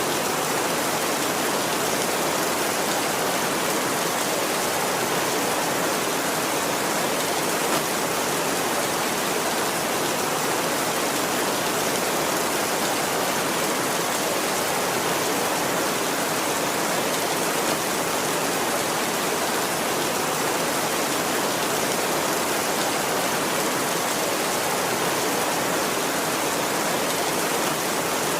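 Steady heavy rain: an even, unbroken hiss of falling rain with no thunder.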